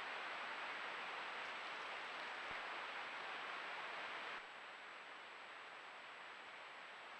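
Steady hiss of a trail camera's outdoor audio, with a faint high-pitched electronic whine. About four seconds in it drops abruptly to a quieter hiss.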